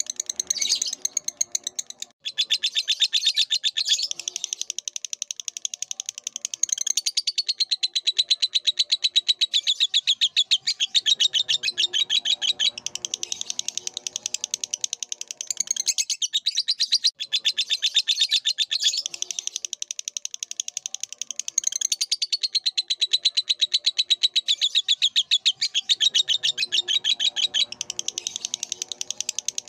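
Lovebird singing a long, unbroken stream of very rapid, high-pitched chattering chirps, stopping only briefly about 2 seconds and about 17 seconds in. Softer, lower calls sit underneath at times.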